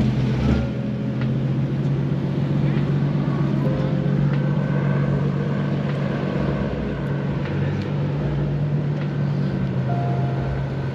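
A car engine running steadily, a low even drone.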